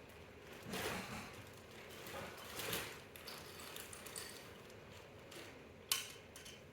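Toy pieces being handled and packed into a bag: soft rustling and light clacks of small hard objects, with one sharp click near the end.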